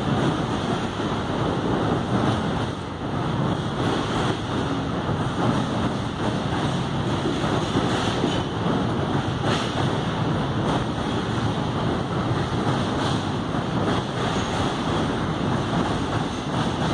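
Canadian Pacific freight train's double-stack container cars rolling across a steel truss bridge: a steady roar of wheels on rails, with a few faint clacks.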